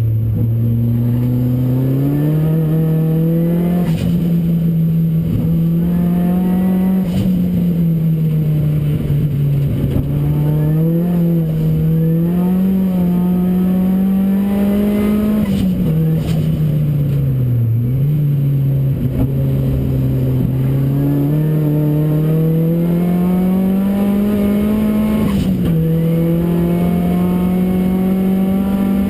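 The Ford Racing Puma's modified Focus RS engine running hard on track. Its note rises under acceleration and drops sharply at each of several upshifts, dipping in between as the car slows for corners.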